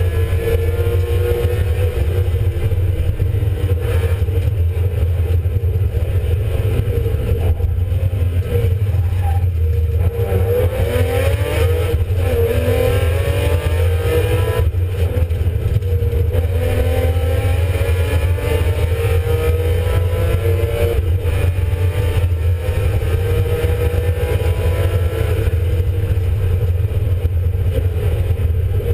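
BMW Compact E36 rally car's engine at full effort, heard from inside the cabin: revs climb and drop with gear changes and lifts, with a deep dip and climb about ten seconds in. A heavy low drone runs underneath throughout.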